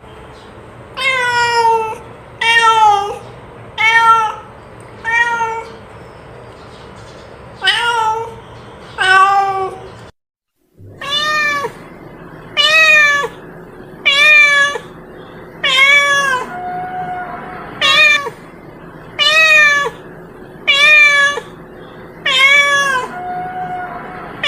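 Domestic cat meowing again and again, each meow rising then falling in pitch, with a few softer, flatter mews in between. The sound drops out briefly about ten seconds in.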